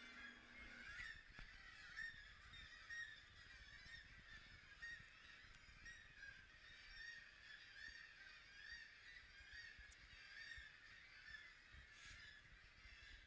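A dense chorus of many seabirds calling at once from a breeding colony, their overlapping calls running on without a break.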